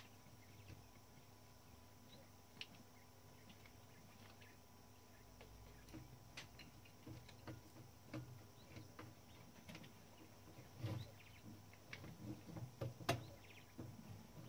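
Near silence with faint, scattered light clicks and taps of work on the typewriter. They grow more frequent in the second half, and there is one sharper click about 13 seconds in.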